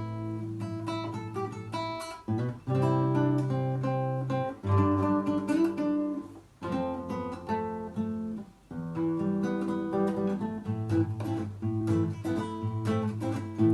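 Acoustic guitar fingerpicking a melody on the upper strings over low bass notes, in A minor. The chord under it changes about every two seconds.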